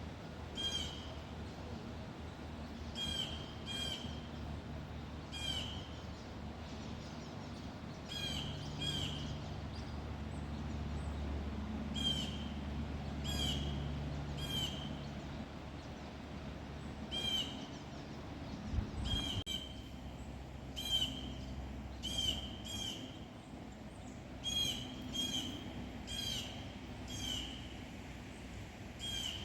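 A bird calling over and over, short slurred chirps in loose series, often in pairs, with a faint low rumble in the background for several seconds near the middle.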